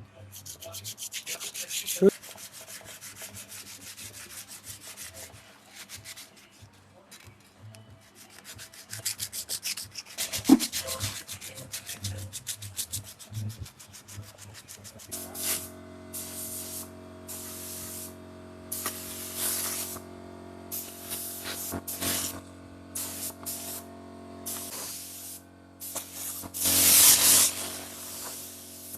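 Sandpaper rubbing back and forth over a motorcycle part in quick strokes. About halfway through, a steady motor hum starts, with short hissing bursts over it.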